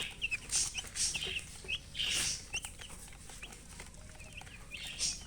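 Baby chicks peeping: many short, high chirps, several a second, overlapping, with a few brief hissy bursts of noise among them.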